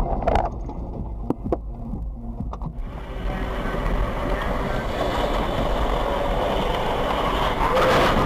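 A vehicle on the move as picked up by a dashcam: a low rumble with a few sharp clicks for about three seconds, then a steady rushing road and wind noise that swells slightly toward the end.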